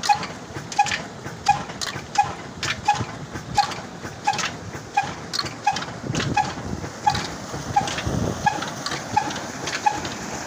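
Old Ruston Hornsby engine running slowly and evenly, a short high note sounding about every 0.7 s amid sharp clacking knocks.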